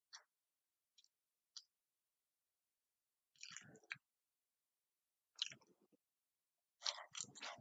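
A person eating close to the microphone: a few faint clicks, then three short bursts of chewing and eating noise about two seconds apart.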